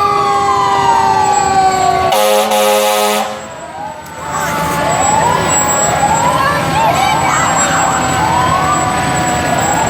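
Fire truck sirens sounding together: one siren winds down with a long falling pitch, an air horn blasts briefly about two seconds in, then a siren repeats short rising wails about every second.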